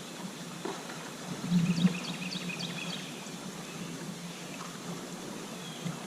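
Kayak on a river: water noise with a few soft knocks, and a short run of quick high bird chirps about two seconds in.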